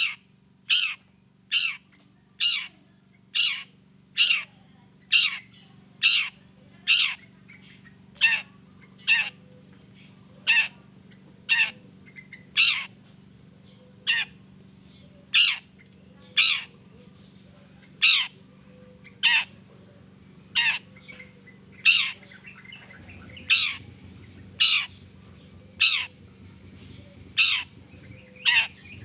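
Long-tailed shrike (cendet) repeating a short, sharply falling call about once a second, over a faint steady low hum.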